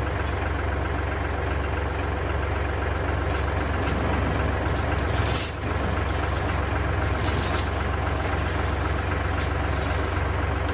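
Kioti DK65 tractor's diesel engine running steadily, with two brief high-pitched noises about five and a half and seven and a half seconds in.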